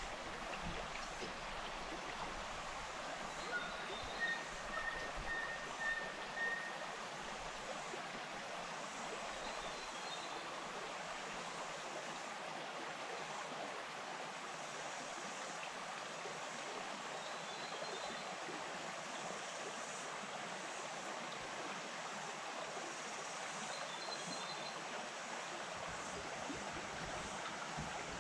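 Bush stream flowing steadily over its bed, an even rushing sound. A few seconds in comes a short run of about five clear high notes, and a fainter, higher chirp recurs every several seconds.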